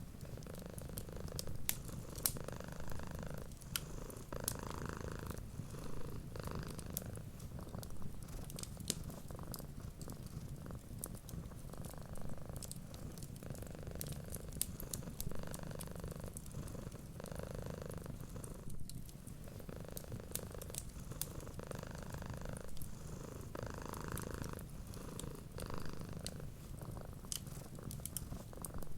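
A cat purring steadily, the purr swelling and easing with each breath about every two seconds. A wood fire crackles with small sharp pops scattered throughout.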